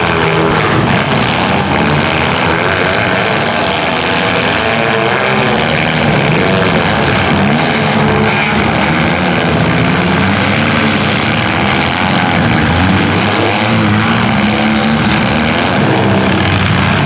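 Engines of several demolition-derby compact cars running and revving at once, a loud continuous din of engine notes rising and falling over one another.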